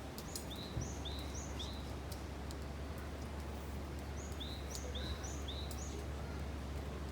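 A songbird calling in two quick runs of short chirps, alternating between a higher and a lower note, about a second in and again around four seconds in. Under it is a steady low rumble of outdoor background noise, with faint scattered ticks.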